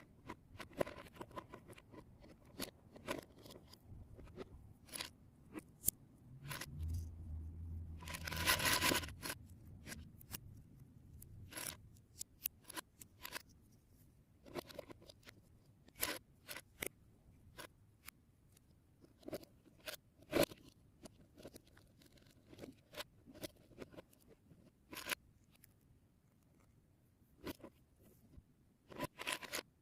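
Lego Technic plastic pieces being handled and snapped together: irregular sharp clicks and taps, with a louder stretch of rustling and scraping about seven to nine seconds in.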